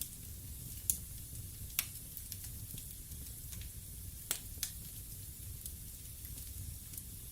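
Wood fire burning in a fireplace: a steady hiss and low rumble with sharp pops of crackling wood. The loudest pops come about one and two seconds in, then a close pair at about four and a half seconds.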